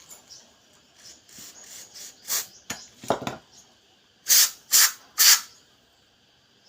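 Aerosol cleaning spray hissing onto a gas stove's ignition cluster in short squirts: a lighter one about two seconds in, then three strong bursts about half a second apart. A duller handling knock comes between them.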